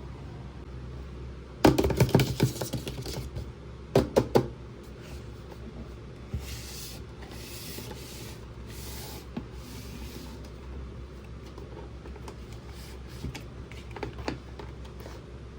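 Hands handling a plastic toy and its packaging: a run of clattering clicks, then two sharp clicks, then soft rustling and a few light clicks.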